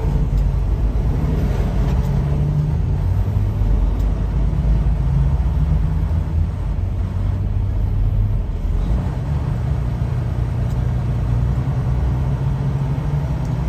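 Semi-truck diesel engine running at low speed, a steady low rumble heard from inside the cab; the engine note shifts about nine seconds in.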